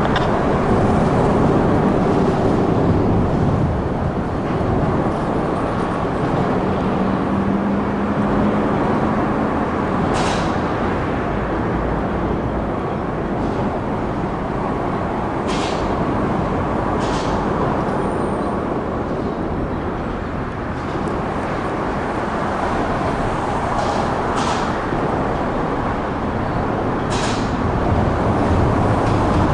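Freight train passing: a steady rumble of wheels on rail, with a few sharp clicks at irregular intervals.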